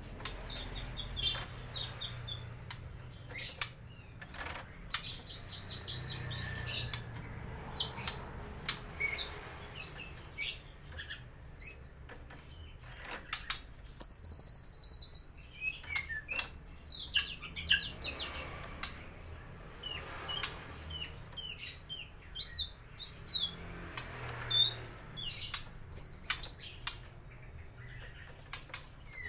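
White-rumped shama singing a varied, mimic-filled song of short whistles, upward and downward sweeps and chirps, with a rapid buzzy trill about halfway through. Sharp clicks fall between the phrases.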